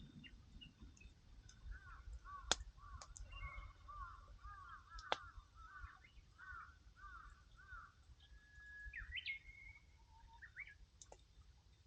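A bird calling in a quick run of about a dozen short repeated notes, then a few whistled notes. Now and then a wood fire gives a sharp crackle or pop.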